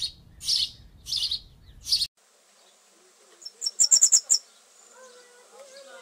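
Songbirds chirping: a series of high chirps about two a second that cuts off abruptly about two seconds in, then a quick run of about six sharp, very high notes near the middle, followed by fainter, lower warbling song.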